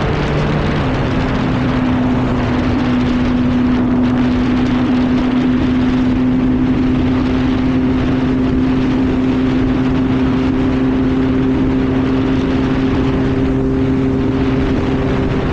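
Yamaha R1 inline-four sport bike engine running at a steady cruising speed, with rushing wind noise over the microphone. The engine note shifts about a second in and then holds steady.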